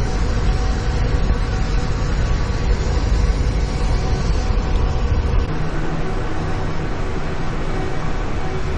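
Amtrak Empire Builder passenger train running: a steady rumble and rail noise with faint steady tones, the deepest rumble easing about five and a half seconds in.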